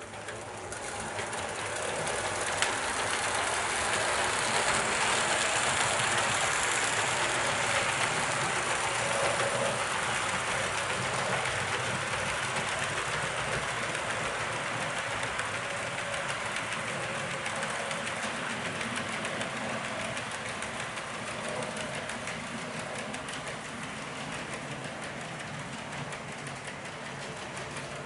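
A train running on track, its wheels clicking over the rail joints; the sound builds over the first few seconds and then slowly fades away.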